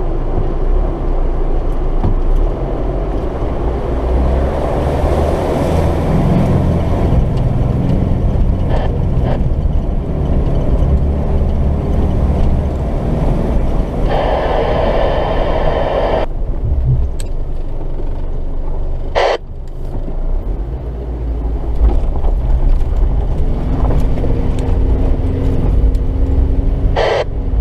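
Off-road four-wheel-drive diesel truck's engine running hard under load as it struggles to get out of a deep ford, with a rush of added noise for a couple of seconds in the middle and a steady held note near the end.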